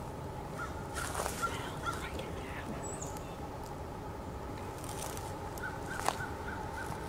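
A bird calling in two quick runs of about five short notes, about a second in and again near the end, over steady outdoor background noise with a faint even hum.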